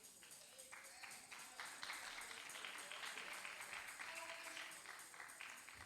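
A congregation clapping and applauding. The applause swells about a second and a half in and dies away near the end.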